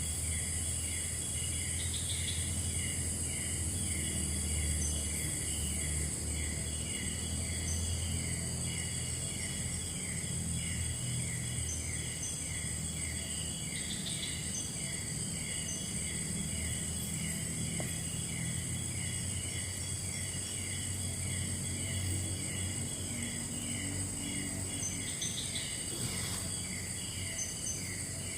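Tropical forest insect chorus at night: a steady high-pitched buzz with a short chirp repeating two to three times a second, and a brief higher call every twelve seconds or so, over a low steady rumble.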